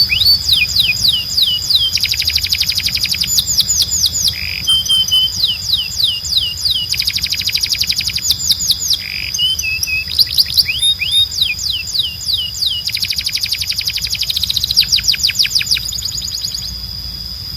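Canary singing: runs of quick, falling whistled notes and rapid trills in phrases of a second or two, over a steady high-pitched tone.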